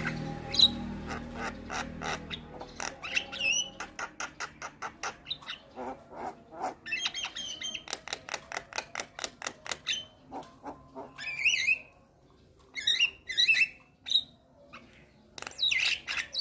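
Javan myna calling: a quick run of short clicking notes, about four to five a second, then louder harsh squawks and chirps with gaps between them over the last few seconds.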